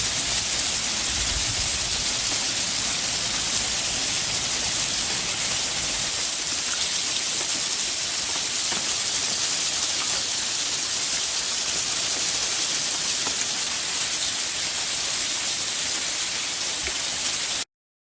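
Hailstorm: hail and rain pelting down as a steady, dense hiss with faint scattered ticks. It cuts off suddenly near the end.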